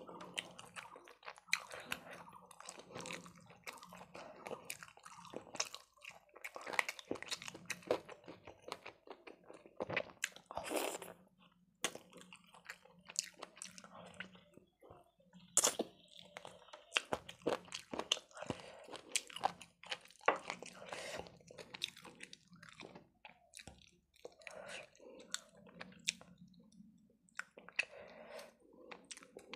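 Close-miked chewing and crunching of toasted brown bread eaten with chicken curry: irregular crisp crunches and wet mouth sounds throughout, with the sharpest crunches about ten and sixteen seconds in.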